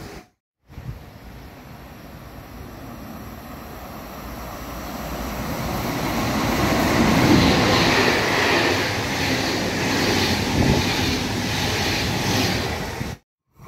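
A train approaching along the track, growing steadily louder over about six seconds, then passing close by with rumbling and a rushing wheel-on-rail noise. The sound is cut off abruptly near the end.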